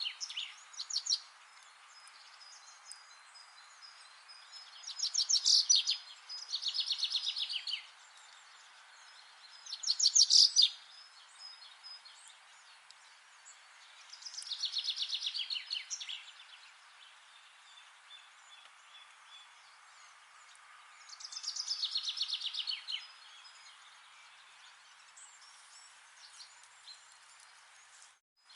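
A songbird singing rapid trilled phrases of many quick high notes, each phrase a second or two long and repeated every few seconds, over a faint steady hiss. The sound drops out for a moment near the end.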